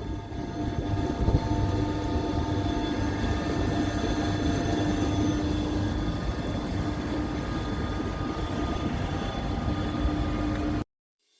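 Machinery running steadily: a low hum with a few steady whining tones held throughout, cutting off abruptly near the end.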